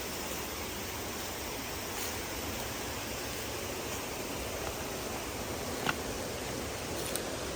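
Steady rushing water, a continuous even hiss, with a couple of faint clicks near the end.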